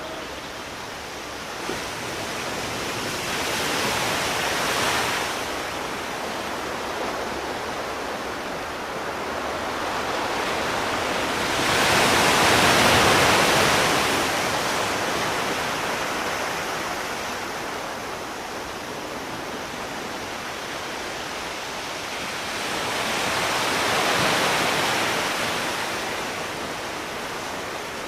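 Sea waves washing onto a shore over a steady rush of surf. Three waves swell up and fade away, roughly ten seconds apart; the middle one is the loudest.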